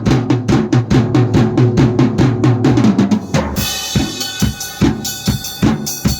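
Drum-led music. A quick, even pattern of pitched drum beats, about four a second, plays until about halfway through, when cymbals, sustained instrument tones and heavier bass-drum beats join in.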